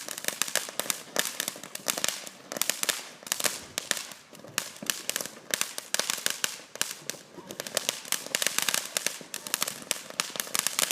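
Consumer firework crackling: a fast, dense run of small sharp pops, many a second, coming in pulsing clusters.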